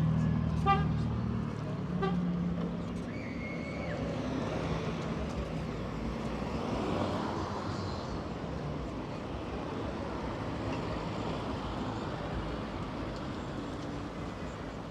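Street traffic: a car horn gives a few short toots in the first two seconds over running engines, then a steady wash of passing traffic.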